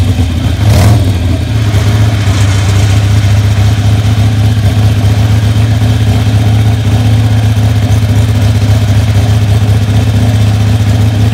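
Harley-Davidson XR750 road racer's V-twin engine running steadily on the stand, with two sharp pops in the first second.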